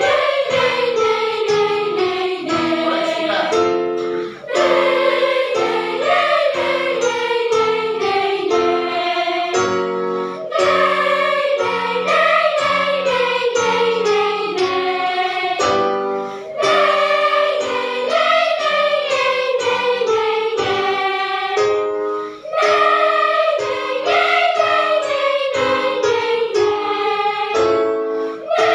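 Children's choir singing in phrases of about six seconds, each melody line falling in pitch, with short breaks for breath between phrases. Short, evenly repeated accompaniment chords run underneath.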